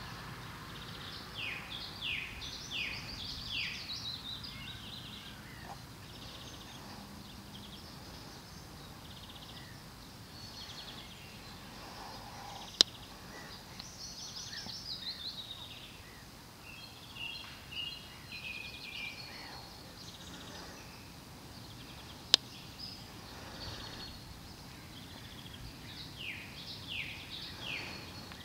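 Songbirds singing over steady low background noise, one bird giving a quick series of falling notes near the start and again near the end. Two sharp clicks, the loudest sounds, stand out in the middle, about ten seconds apart.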